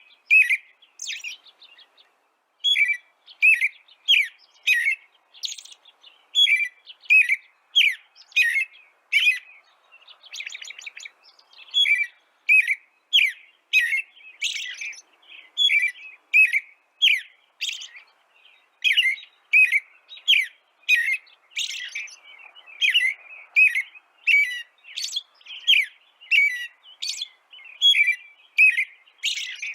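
A songbird chirping over and over: short, sharp chirps about two a second, in runs broken by brief pauses.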